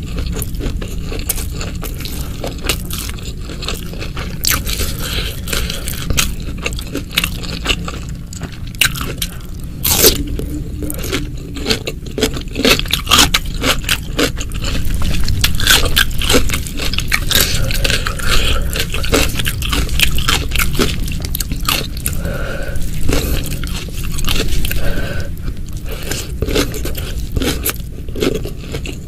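Close-miked eating: a person chewing and biting crunchy food, with many sharp irregular crunches and one especially loud crunch about ten seconds in.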